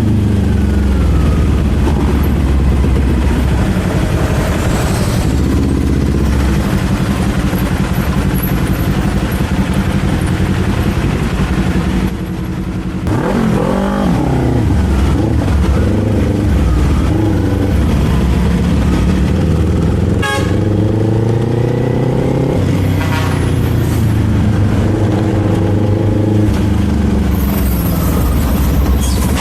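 Kawasaki Z400's parallel-twin engine and exhaust under way, the pitch rising and falling several times as the bike accelerates and shifts through gears. About twelve seconds in, the level dips briefly as the throttle closes, then the engine revs back up.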